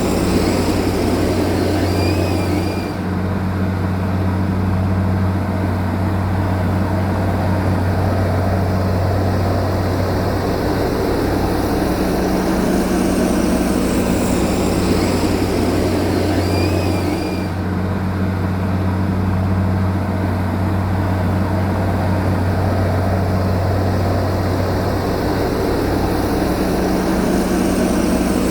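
Heavy diesel engine of earth-moving machinery running steadily, a continuous low drone with a strong hum.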